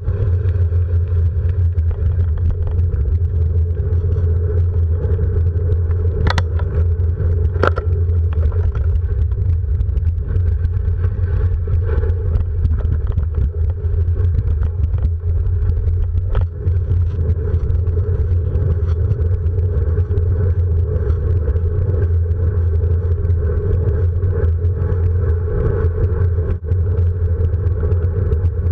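A vehicle on the move: a steady, loud low rumble of running gear and road noise. A few sharp clicks or knocks come through about six, eight and sixteen seconds in.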